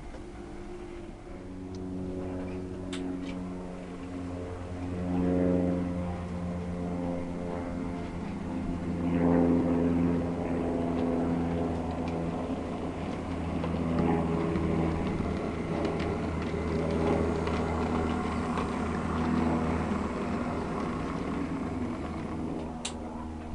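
Diesel engine sound from an OO gauge model diesel locomotive running on the layout. The pitch rises in steps as it notches up, then holds steady, with a couple of sharp clicks.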